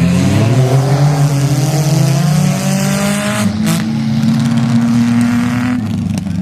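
Demolition derby car engine revving up, held at high revs for a few seconds, then dropping off near the end. A single sharp bang comes a little past halfway.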